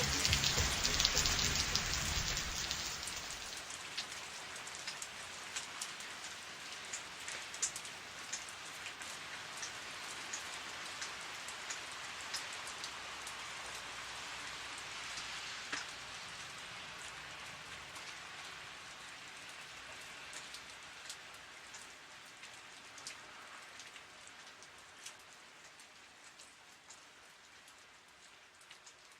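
Steady rain with scattered drops pattering, louder in the first few seconds and then fading out slowly.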